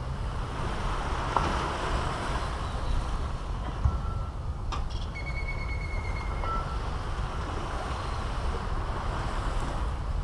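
Caribbean Sea surf washing onto the beach, with a low wind rumble on the microphone. A few short, high, steady bird whistles come in about four to seven seconds in, with one sharp click in between.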